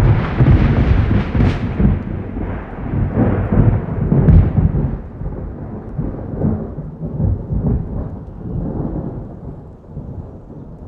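A thunderclap that breaks in suddenly and loudly, then rolls on as rumbling thunder that slowly fades over the next several seconds, with rain beneath it.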